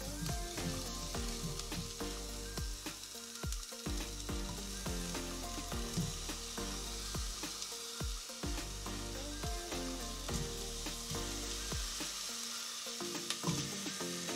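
Chopped onion, ginger and garlic sizzling in a little hot oil in a stainless steel pot, stirred and scraped with a spatula. Raw chicken wings are added partway through, and the sizzling carries on under them.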